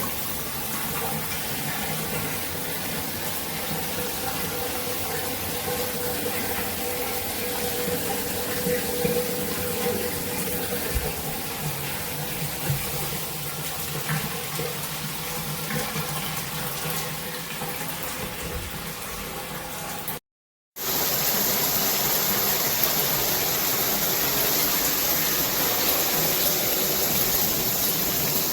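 Water running through a shower head, a steady rushing spray. About two-thirds of the way in it cuts out for a moment and comes back as a hissier spray.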